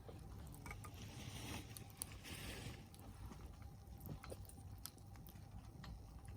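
Log campfire crackling, with scattered sharp pops over a steady low rumble.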